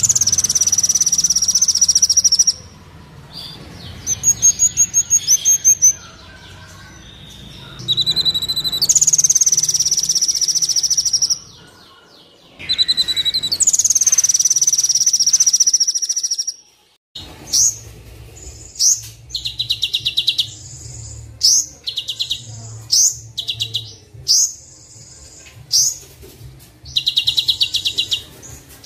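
Looped birdsong training recording for the kolibri wulung sunbird, with fill-in songs: high, thin trills and long, buzzy high-pitched phrases. From about halfway, a run of short rapid rattling calls repeats every second or so, over a faint low hum.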